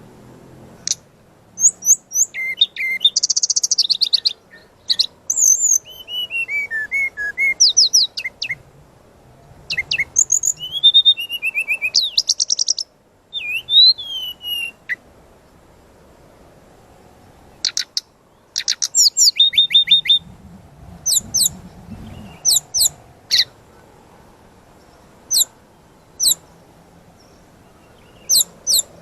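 Brown-chested jungle flycatcher (sikatan rimba dada coklat) singing a full, varied song of rapid high trills, slurred whistles and sharp chirps in quick phrases. It pauses for a couple of seconds about halfway, sings another burst, then gives separate sharp calls near the end.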